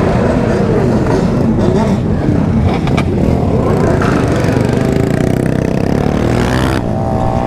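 Engines of a group of remapped sport motorcycles running and revving together as they ride, several engine notes rising and falling over one another.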